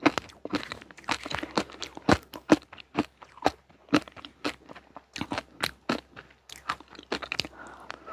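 Close-up crunching and chewing of crisp dessert snacks, a quick run of sharp crunches about two to three a second.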